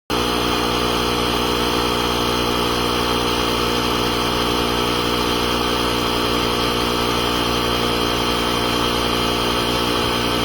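A motor running steadily at a constant pitch, a loud even hum with a rattly, buzzing edge.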